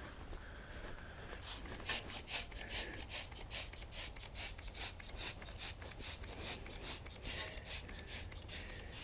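Rapid rhythmic swishing strokes, about four a second, starting about a second and a half in: a car wheel being cleaned by hand.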